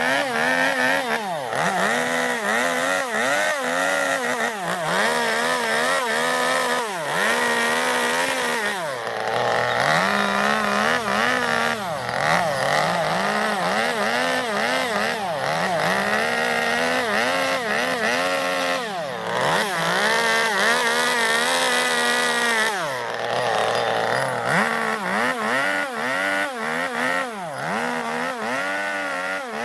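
Chainsaw carving into zelkova wood, hollowing out a bowl. The engine revs up and sags again about once a second as the bar bites and is eased off, with a few short steadier stretches.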